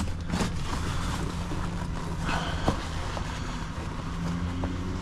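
Diesel truck engine idling with a steady low hum, with a few light knocks and a brief rustle of items being moved in the cab.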